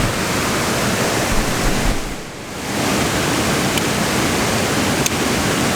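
Steady rush of a river waterfall, dipping briefly a little after two seconds in.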